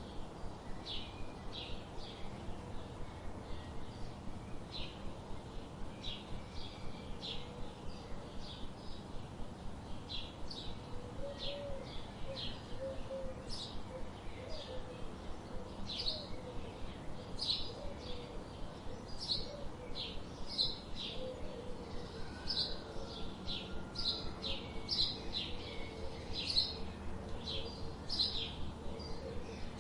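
Birds chirping in a quick run of short, high chirps, several a second, with a fainter lower warbling sound joining about eleven seconds in.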